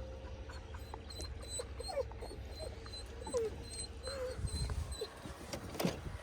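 A dog whimpering in a few short rising-and-falling whines over a steady low rumble.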